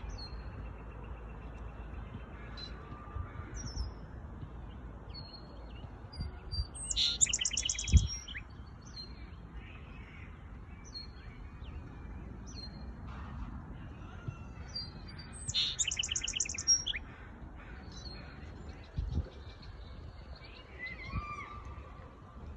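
Songbird singing: scattered short high chirps, with two loud bursts of rapid trilled song about 7 seconds and 16 seconds in. A low rumble runs underneath.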